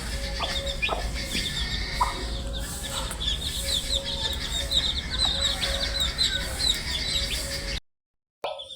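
A brood of baby chicks peeping: many short, falling peeps overlapping continuously over a steady low hum. The sound cuts out for about half a second near the end, then resumes.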